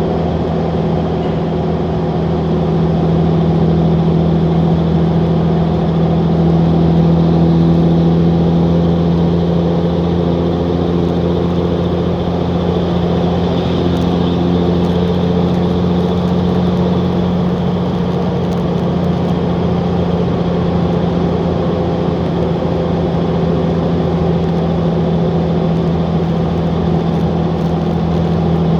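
Straight-piped 5.9 L Cummins inline-six turbodiesel running loud and steady at a constant engine speed, its exhaust note holding one low pitch.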